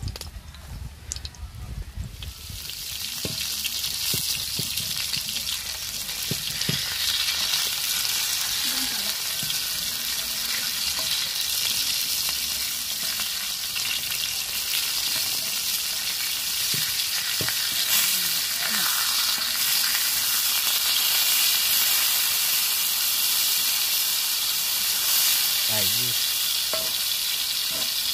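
Squid vadas sizzling as they fry in hot oil in a shallow black pan over a wood fire. The sizzle grows louder about two seconds in, then holds steady.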